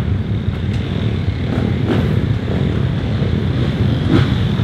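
Motocross bike engines running on the race track, a steady, loud mechanical din.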